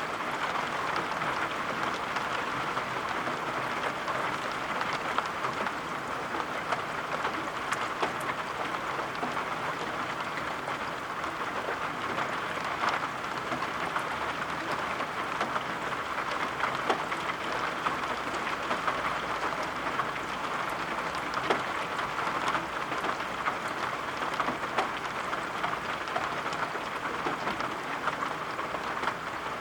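Steady rain falling: an even, dense patter with scattered sharper drop ticks.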